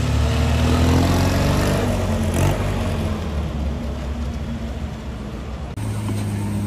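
Ferrari Monza SP2's V12 accelerating away, its note rising over the first two seconds. It then settles into a steadier, quieter engine sound. Near the end it gives way to the steady idle of a Ferrari 812 GTS V12.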